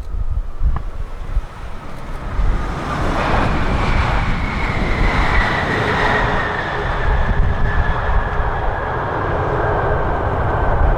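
Airliner on landing approach passing close by: its engine noise swells about two and a half seconds in, with a high whine that slowly falls in pitch as it goes past. Strong gusty wind buffets the microphone with a low rumble throughout.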